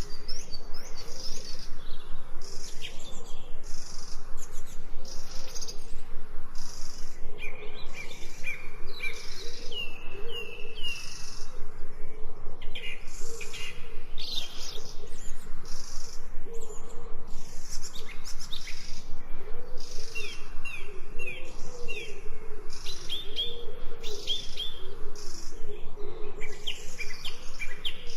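Several birds singing and chirping, with short whistled phrases coming and going, over an evenly repeating high chirp.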